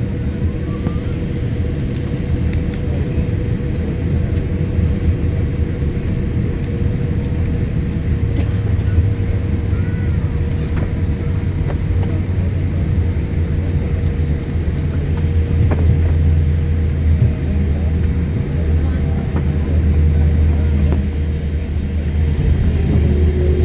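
Jet airliner engines rumbling at take-off power, heard from a distance as a steady low rumble that swells and eases a little, with a faint steady tone above it.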